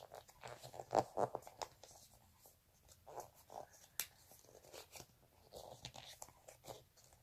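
Coloured paper being folded and creased by hand: faint crinkling rustles and short crisp clicks. There is a small cluster of crackles about a second in and a sharper single click about four seconds in.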